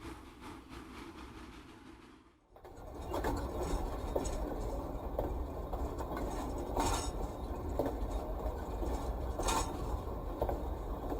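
Model freight train running along the layout's track: a steady rumble with scattered sharp clicks from the wheels over rail joints and switches. After a short dip about two and a half seconds in, the running sound gets louder.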